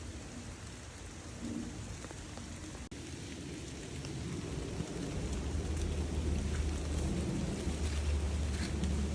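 Steady rain falling on the surroundings, an even hiss, with a low rumble growing louder about halfway through.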